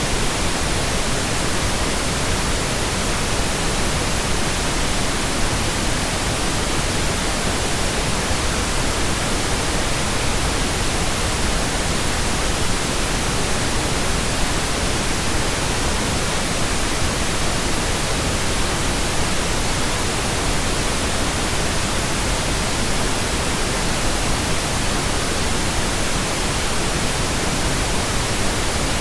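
Steady pink noise generated in Audacity: an even, unchanging hiss across all pitches, with no other sound.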